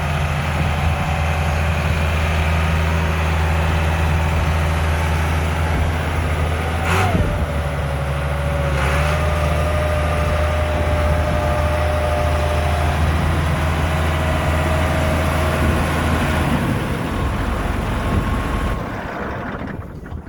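John Deere 8320 tractor's six-cylinder diesel engine idling steadily. About seven seconds in there is a click, followed by a steady whine. The engine sound changes and fades out near the end.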